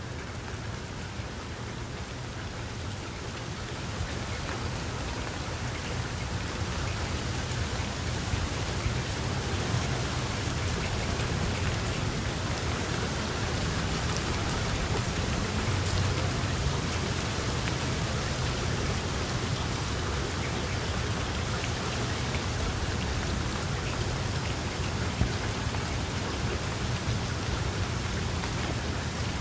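Steady rain falling and pattering on surfaces, growing a little louder over the first few seconds and then holding even, with a low rumble underneath.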